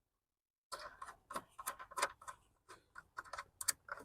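A quick, irregular run of light clicks and taps, starting less than a second in, as car light-assembly parts are set into place and their fasteners started by hand.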